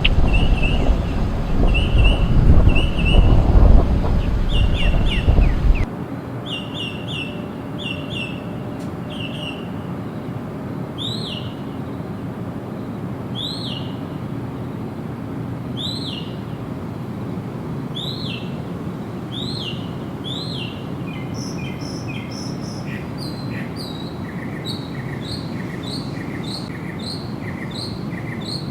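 Wild birds calling with short repeated chirps, at first over loud wind rumble that stops abruptly about six seconds in. After that, single down-curving calls repeat every second or two over a steady hiss, and near the end a different set of quick, repeated two-note calls takes over.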